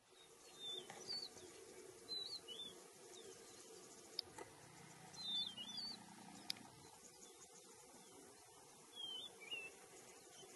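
A bird calling in short, wavering whistled phrases, four times, over a faint outdoor background, with two sharp clicks in the middle.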